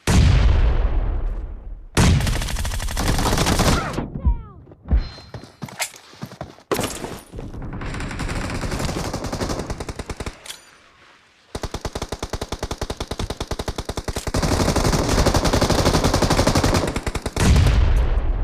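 Video-game gunfire: loud shots and bursts of automatic fire, ending in a long rapid burst of evenly spaced shots.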